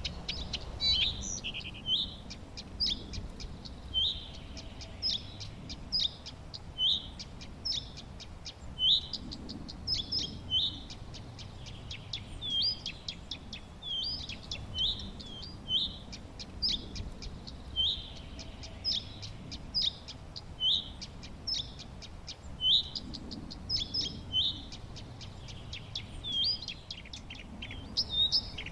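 Birds chirping and singing: short, high, upward-sweeping notes about once a second, with quick high ticking calls between them.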